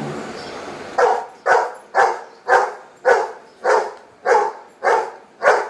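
A dog barking nine times in an even rhythm, about two barks a second, starting about a second in: it is barking out a count of ten on command.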